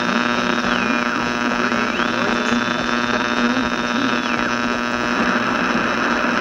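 Old radio broadcast playback full of reception noise: a steady hum and hiss, with a high whistling tone that slides down in pitch and back up twice.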